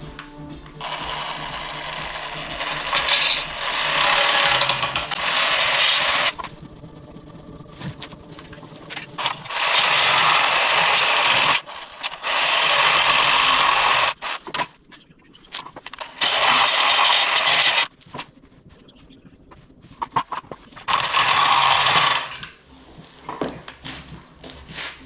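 Hand-held power tool cutting in about six bursts of one to three seconds each, with short pauses between, as a fireplace door that does not close tightly is trimmed down.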